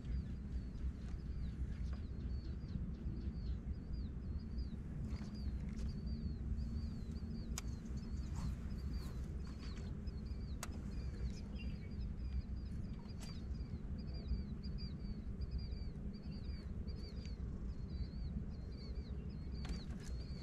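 A bird calling with short high chirps, about two a second, over a steady low rumble.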